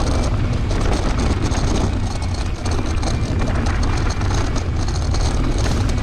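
Wind buffeting the microphone in a steady low rumble, with the rattle and crunch of a mountain bike rolling over a dirt trail.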